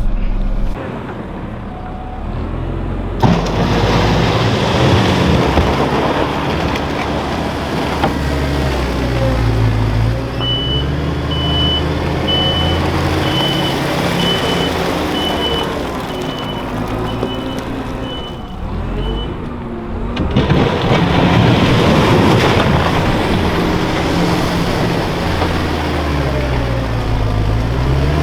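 Diesel engine of a farm loader working under load while pushing manure, revving up and down as it drives back and forth. A reversing beeper sounds repeatedly for several seconds in the middle.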